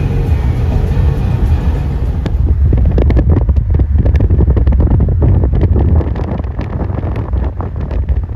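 Wind buffeting the microphone: a heavy low rumble, with rapid crackles from about three seconds in.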